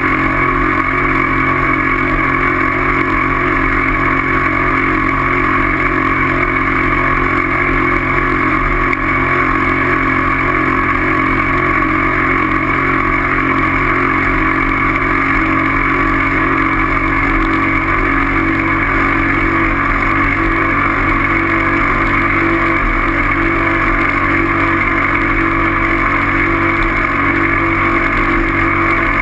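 Engine running steadily at a constant pitch, as of a vehicle cruising at an even speed.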